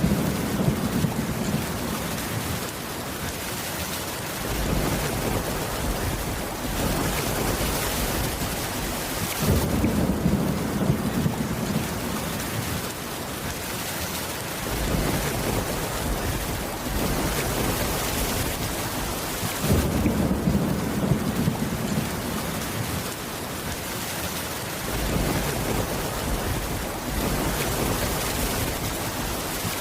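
Steady heavy rain with low thunder rumbles swelling up about every ten seconds in an even, repeating pattern.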